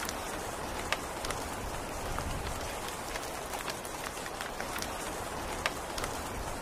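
Steady rain falling, with scattered drops ticking and two sharper drips, one about a second in and one near the end.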